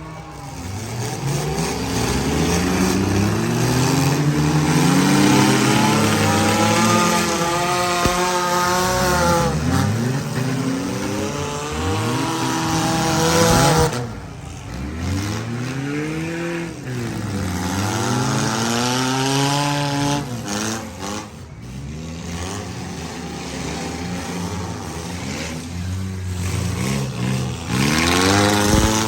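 Engines of several compact and midsize demolition derby cars revving at once, their pitches rising and falling over one another. The sound swells to its loudest about halfway through, then drops back.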